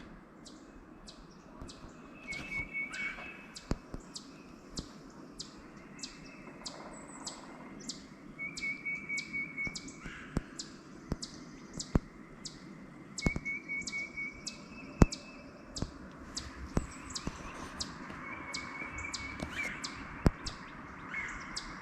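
A bird singing a short trill that repeats about every five seconds, over a fast steady ticking and a few faint knocks.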